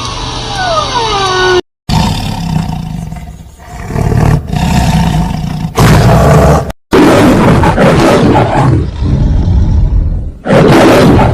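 A large animal roaring: loud, rough, deep roars in several long bouts, broken by abrupt cuts.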